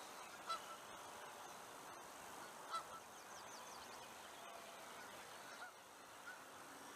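Quiet open-air background with a few short, faint distant bird calls, the clearest about half a second in and near three seconds in.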